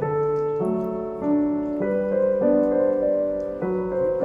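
Background piano music, slow held chords changing about every half second.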